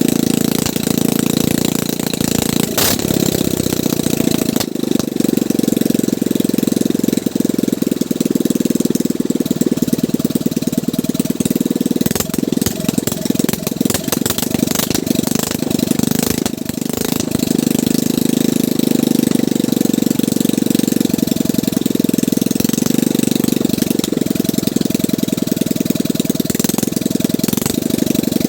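Small gasoline boat engine running steadily with a rapid, even chug; its note becomes unsteady for a few seconds midway, then settles again.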